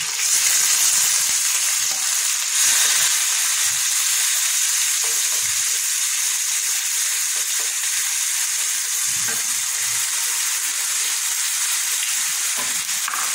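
Wet ground spice paste hitting hot mustard oil in a frying pan: a loud, steady sizzling hiss that starts suddenly and keeps going. A wooden spatula stirs the paste, giving faint low knocks now and then under the sizzle.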